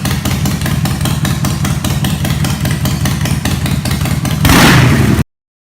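Motorcycle engine idling with a steady rapid pulse, then revved about four and a half seconds in before the sound cuts off abruptly.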